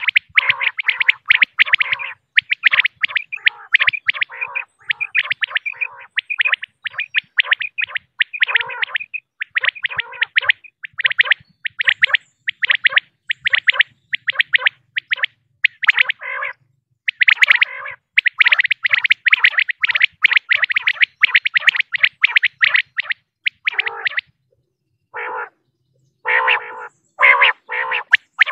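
Female common quail calling: a fast run of short, repeated notes, several a second, that thins out with brief gaps near the end.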